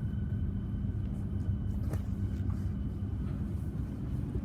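Siemens electric suburban train in motion, heard from inside the carriage: a steady low running rumble with a faint steady whine that fades out a little over three seconds in.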